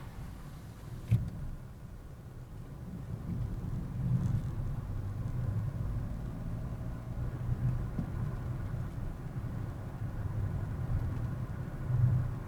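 A car driving, with steady engine hum and road noise picked up by a dashcam. A sharp knock about a second in, and a brief louder swell near the end.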